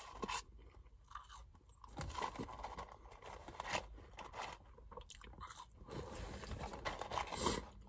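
A person chewing crisp French fries: a string of short, irregular crunches.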